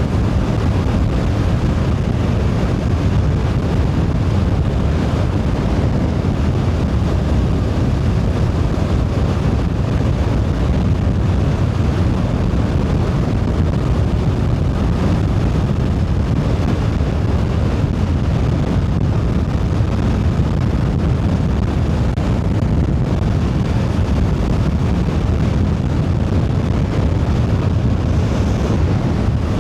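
Steady wind rush on a helmet-mounted camera microphone on a moving motorcycle with the visor open, over the running engine and road noise of a Voge DS525X.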